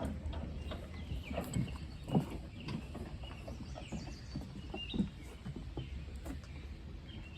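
Faint outdoor ambience: short high chirps, as of birds, with scattered light knocks over a low rumble.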